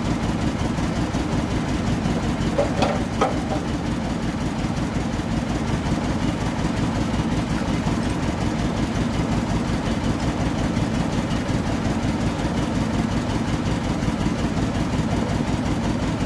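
Toyota 2TR 2.7-litre four-cylinder petrol engine idling steadily after its rebuild, with a couple of light knocks about three seconds in.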